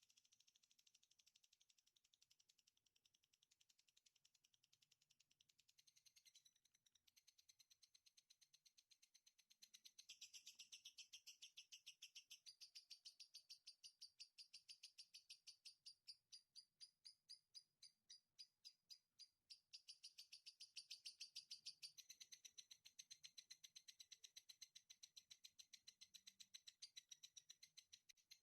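Faint songbird song: a long run of rapid, high repeated chattering notes that grows louder about ten seconds in and changes pace several times, at one point slowing to a few distinct pulses a second.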